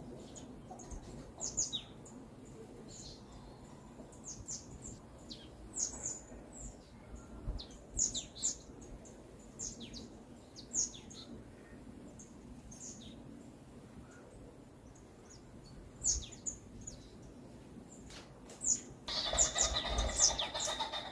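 Small songbirds chirping: many short, high, down-sweeping chirps scattered irregularly over a faint steady forest background. Near the end a louder, lower and fuller bird call sets in.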